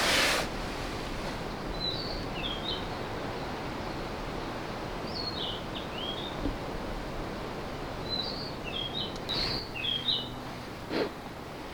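Forest birdsong: a songbird repeating short chirping phrases over a steady outdoor hiss. A loud rustling burst comes at the very start, and two short knocks come near the end.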